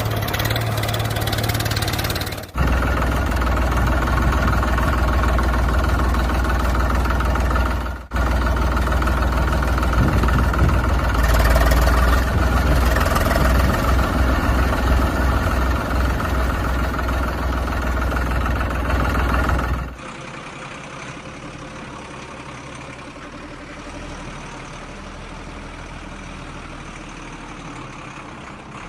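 Vehicle engine running steadily with a deep low hum, heard across several spliced clips that cut off abruptly; much quieter after the last cut, about two-thirds of the way through.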